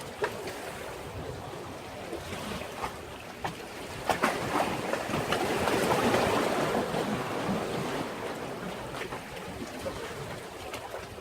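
Sea waves washing against a breakwater. A surge builds about four seconds in, swells to its loudest midway and ebbs away, with a few sharp slaps of water.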